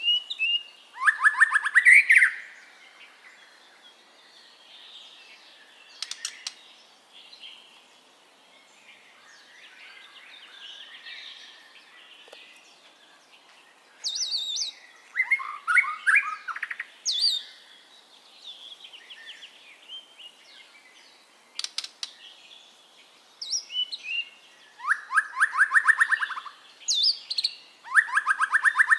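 White-rumped shama (murai batu) singing: loud, fast phrases of rapidly repeated notes mixed with high whistles, every several seconds, with softer twittering between the phrases.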